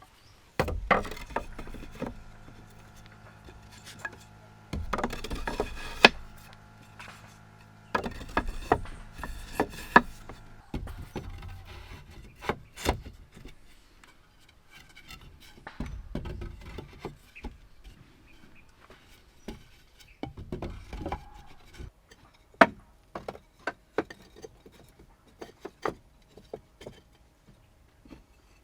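Irregular knocks and rubbing of wood being handled, some sharp and separate, some in short clusters. A low steady hum runs underneath through about the first third.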